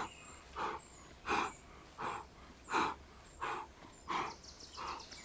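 A man's sharp, rhythmic exhales through the mouth, about one every 0.7 seconds, the breathing of a person working hard at bicycle crunches.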